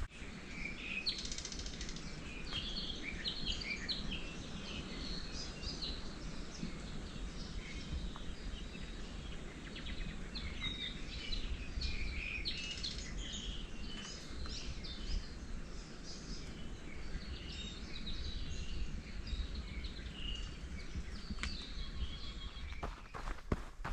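Forest birds chirping and singing, many short high calls overlapping throughout, over a steady low background rumble.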